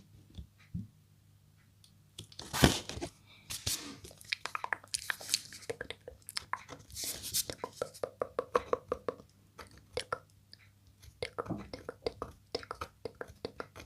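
Close-miked ASMR mouth sounds: a rapid series of short wet clicks and smacks, with one louder crackle about two and a half seconds in.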